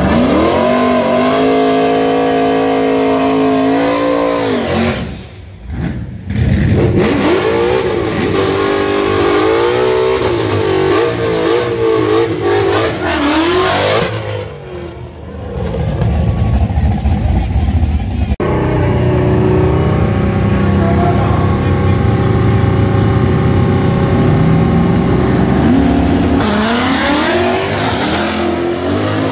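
Street-class drag car engines revving up and down in short blips at the starting line. They are then held at steady revs, and rise sharply as the cars launch near the end.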